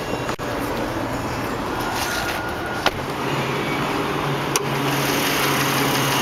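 2009 Dodge Journey's 3.5-litre V6 idling steadily, with a few sharp clicks as the hood's safety latch is worked. The engine sound grows louder and fuller about four and a half seconds in as the hood comes up.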